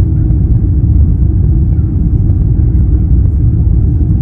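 Steady loud low rumble of a Lufthansa Airbus A350-900 airliner, heard from inside the cabin, with no separate tones or knocks.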